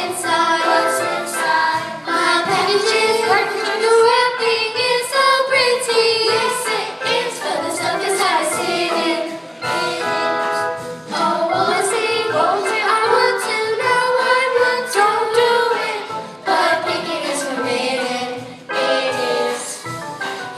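Female voices singing a song over instrumental accompaniment, with long held notes that waver in pitch.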